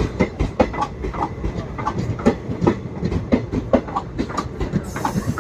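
Train running on the track, its wheels clattering in a quick, uneven run of knocks over a steady rumble.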